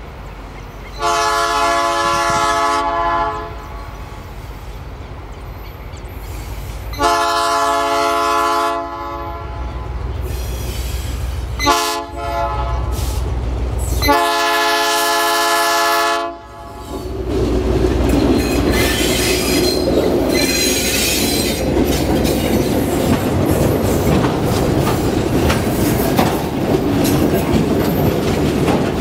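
G22UB diesel locomotive's multi-tone air horn sounding four blasts, long, long, short, long: the standard grade-crossing signal. Then the train rolls on with a steady rumble, wheels clacking and squealing on the rails.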